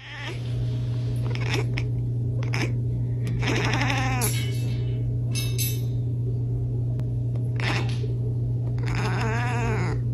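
Bleating calls with a wavering pitch, several times, over a steady low hum, with a few short clicks between them.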